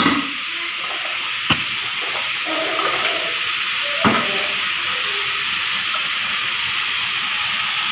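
Stir-fry of squash and salted squid sizzling steadily in a wok over a gas flame, with two sharp taps, about a second and a half in and again about four seconds in.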